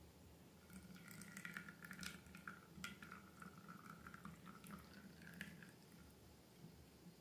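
Faint wet clicking and trickling of slime or liquid being poured and worked, starting about a second in and fading out near six seconds, over a low steady hum.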